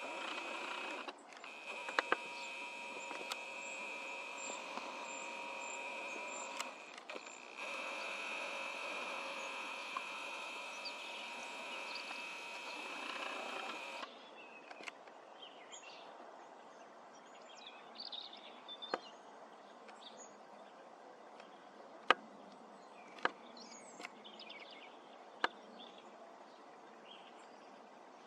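A steady mechanical whine with a few fixed tones for about the first half, cutting off suddenly. After it comes faint outdoor background with small birds chirping now and then and a few sharp clicks.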